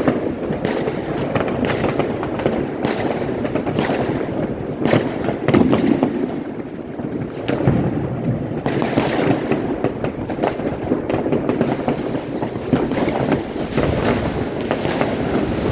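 Fireworks and firecrackers going off in a dense, continuous barrage of bangs and crackling.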